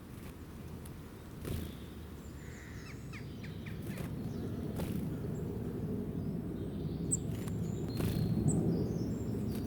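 Small wild birds chirping in short, scattered calls, some of them very high and brief, over a steady low outdoor rumble. A soft knock about a second and a half in.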